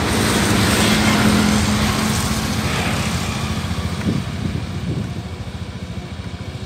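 Distant passenger train running past: a steady rumble with a low hum that fades away over the last few seconds.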